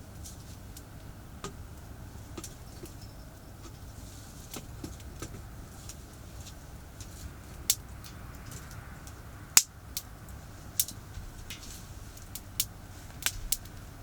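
Wood campfire crackling, with irregular sharp pops, the loudest about nine and a half seconds in, over a steady low rumble of distant expressway traffic.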